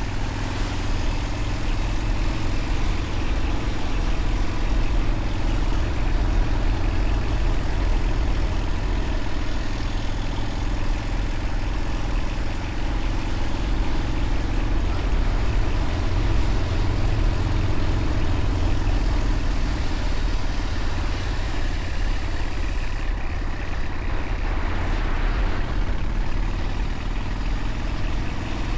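Motorcycle engine running steadily while riding, with a continuous deep rumble underneath.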